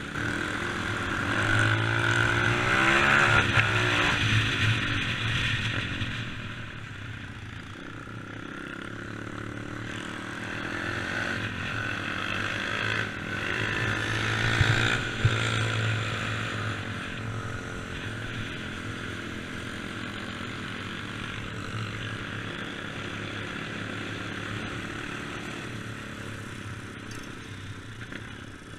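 Dirt bike engine running under way, its pitch rising and falling with the throttle, louder in the first six seconds and again about halfway through.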